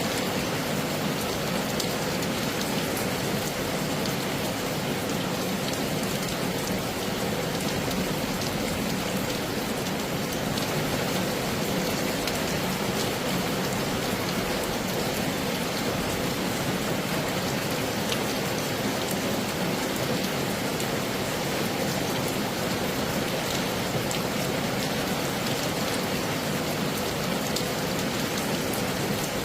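Heavy rain falling steadily: an even, unchanging hiss dotted with the clicks of single drops striking.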